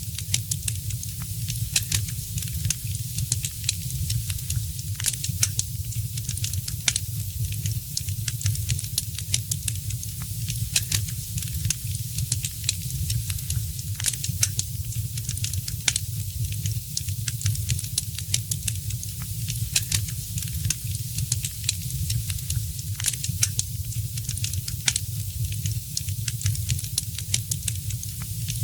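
Wood fire crackling, with frequent sharp pops and snaps over a steady low rumble and hiss of the flames.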